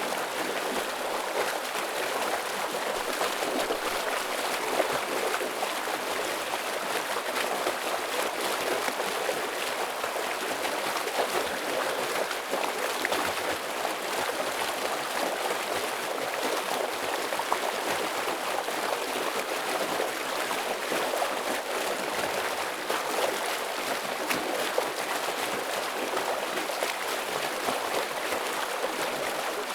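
Stream water flowing over rocks in a steady, full rush with fine splashing and gurgling.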